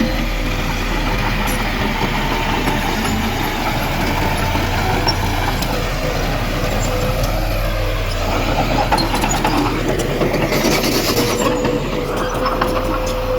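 Heavy diesel earthmoving machinery running steadily, a dump truck and bulldozer engine with a steady low rumble and a held whine. A brief hiss comes near the end.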